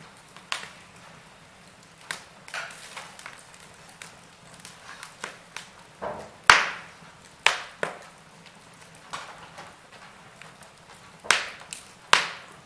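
Wood fire in a fireplace crackling, with irregular sharp pops over a low hiss. The loudest pop comes about six and a half seconds in, and two more strong pops come near the end.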